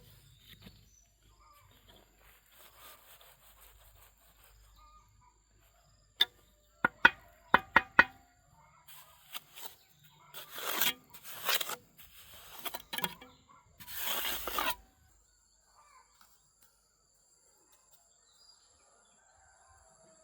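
Hand construction work on wood: about six sharp knocks in quick succession, then several rough rasping strokes, over faint birds and insects.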